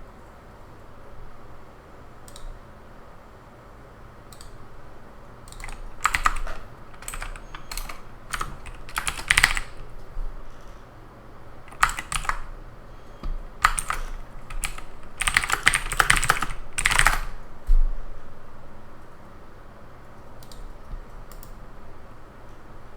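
Typing on a computer keyboard in several short runs of rapid keystrokes, with a few isolated single clicks before and after the runs.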